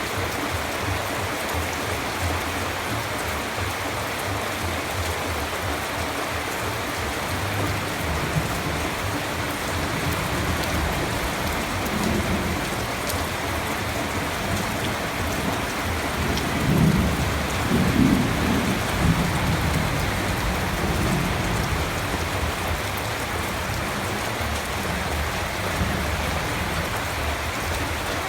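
Steady heavy rain, with a low roll of thunder rumbling up from about twelve seconds in, loudest near the middle and fading out a few seconds later.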